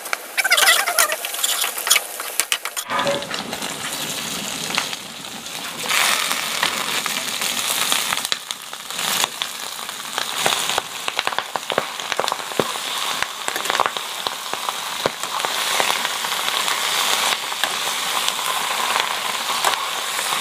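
Food frying in hot oil in an aluminium wok, a steady sizzle that grows louder and denser about six seconds in, once wood ear fungus is frying with the spices, onion and greens. Frequent short clicks and scrapes run through it as the pan is stirred and tossed.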